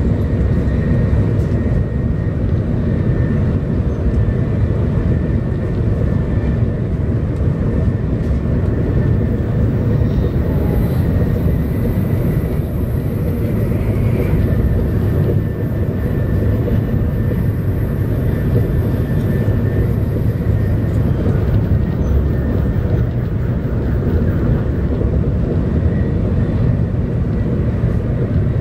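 Cabin noise of a 700 series Shinkansen running at speed: a steady low rumble from the wheels and the air rushing past, heard from inside the passenger car, with a faint high whine over it.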